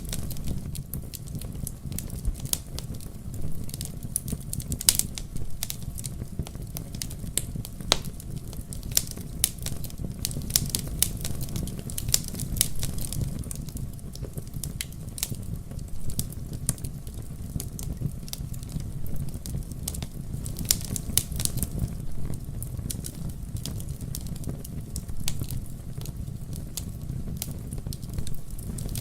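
Wood fire burning in a fireplace: a steady low rumble of the flames under frequent, irregular sharp crackles and pops.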